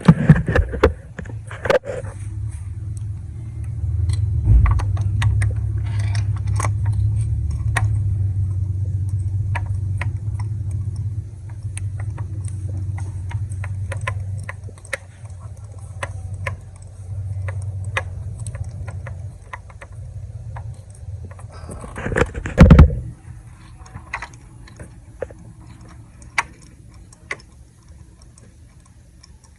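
Scattered metallic clicks and clinks of hand tools working on an engine bay, over a low rumble during the first two-thirds. There is one loud low bump about 22 seconds in.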